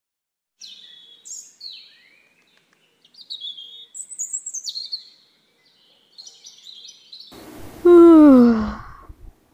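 Songbirds chirping and trilling in quick high phrases. About eight seconds in, a loud voice-like sound slides down in pitch for about a second.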